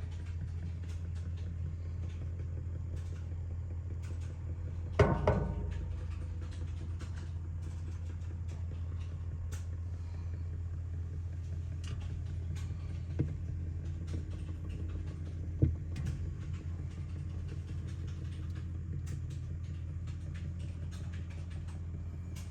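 Steady low mechanical hum of a running motor, with scattered light clicks and a brief louder sound about five seconds in.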